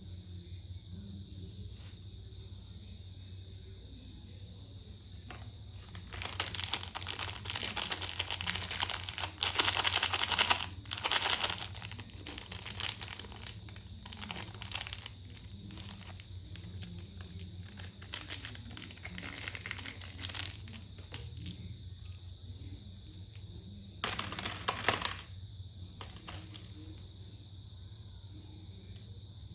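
Crinkly wrappers of individually wrapped Cadbury Celebrations chocolates being crumpled and torn open, in several bursts, the longest starting about six seconds in and a short one near the end. A steady high-pitched tone and a low hum run underneath.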